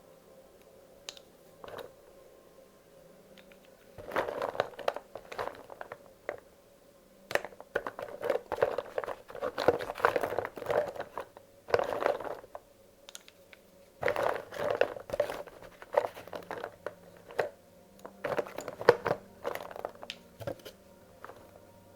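Loose wax crayons clicking and rattling against one another in bursts of a few seconds each as they are handled and sorted by colour. There are short pauses between handfuls, and it is quieter during the first few seconds.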